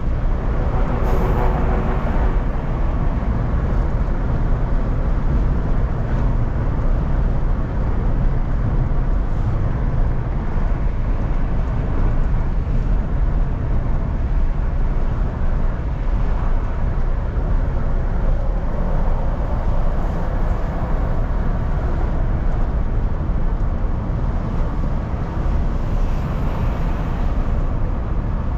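Steady low rumble of engine and tyre noise heard from inside the cabin of a moving car.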